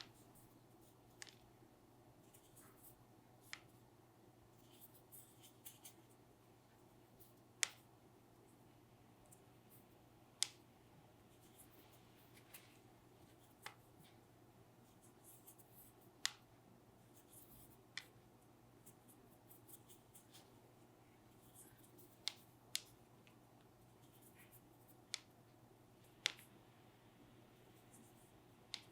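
Sparse, sharp small clicks and light taps, about a dozen at irregular intervals, over a quiet room's faint low steady hum.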